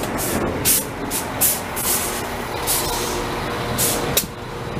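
CAF-built NI Railways diesel multiple unit running right alongside the platform: a steady engine hum with a faint droning tone, broken by short sharp hisses or clacks every half second or so.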